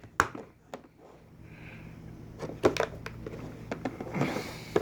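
A package being unpacked by hand: scattered clicks and knocks as the box and its contents are handled, with a short rustle near the end.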